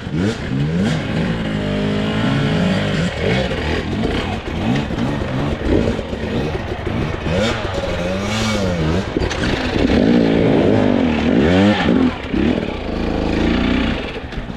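Two-stroke enduro dirt bike engine revving hard and unevenly, the pitch rising and falling again and again as the throttle is worked up a loose climb.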